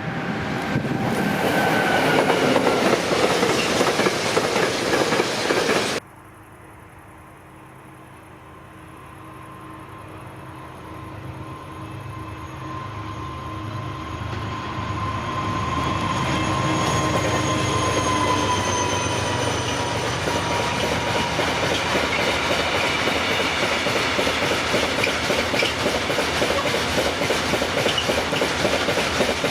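A train rolling past loudly, cut off abruptly about six seconds in; then another train approaches and grows louder, a high whine sliding down in pitch as it nears, before a long, steady run of wheels clattering over the rails as the cars pass.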